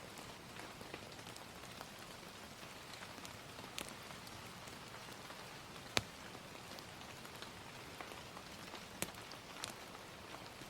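Steady gentle rain, with a few sharp crackles from a wood fire scattered through it; the loudest crackle comes about six seconds in.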